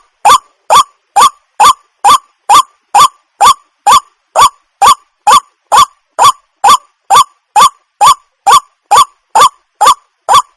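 Waterhen calling: a short, hooked note repeated at an even pace of about two calls a second, each one the same as the last.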